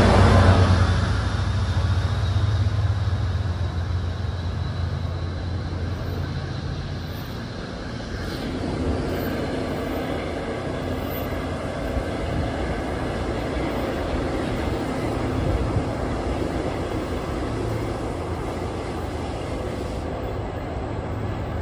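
A passing NJ Transit train ends in the first second or two, its loud noise dropping away, and a steady low rumble carries on after it.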